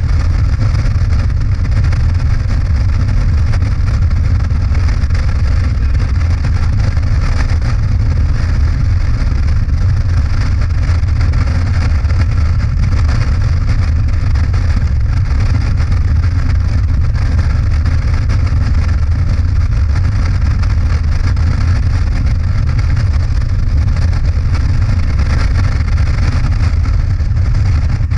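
Motorcycle running steadily at road speed, a constant low rumble of engine and wind noise with no gear changes or revving.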